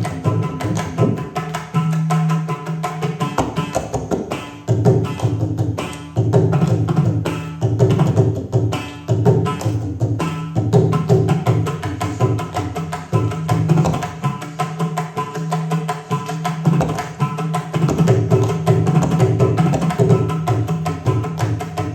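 Indian classical hand drums playing a fast, dense Carnatic rhythm, with deep pitched strokes sounding throughout.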